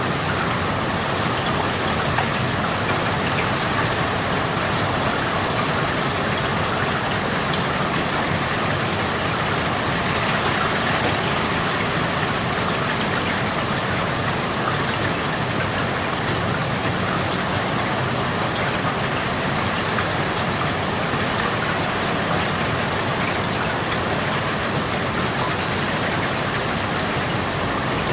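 Steady rain falling, heard through an open window: an even hiss with scattered drop ticks.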